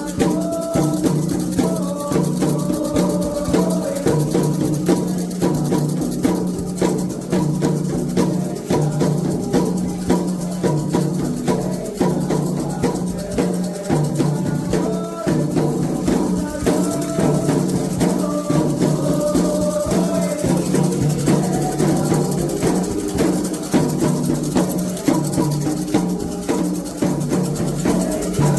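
Candomblé ritual music: atabaque hand drums and shakers keeping a steady, dense beat while voices sing a melodic chant over them.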